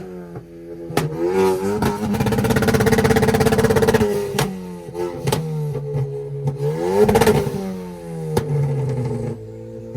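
A performance car engine being revved in blips at a steady high idle. Its pitch climbs and falls back about three times, near one, four and seven seconds in, with sharp cracks here and there.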